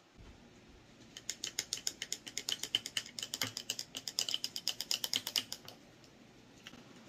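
A metal drinking straw stirring a thick green smoothie in a glass mason-jar mug, clinking rapidly against the glass, about nine light clinks a second for some four and a half seconds.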